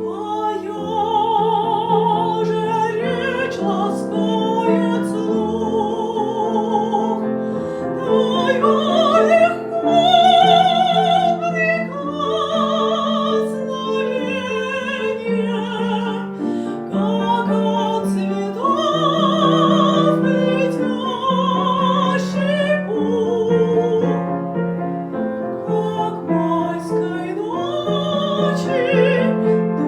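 A woman's classically trained voice singing a Russian art song with wide vibrato, accompanied by piano chords. The sung line rises and falls through long held notes.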